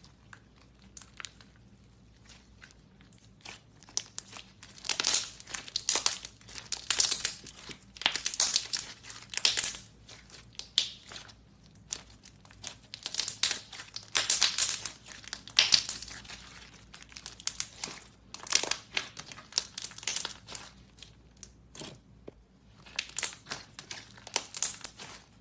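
Slime being squeezed and stretched by hand: repeated bursts of fine clicks and pops as air pockets in the slime burst, with short quiet gaps between handfuls.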